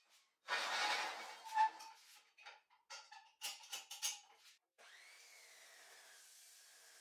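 Workshop tool work: a rasping scrape lasting about a second and a half, then a run of sharp clicks and knocks, with faint background music after them.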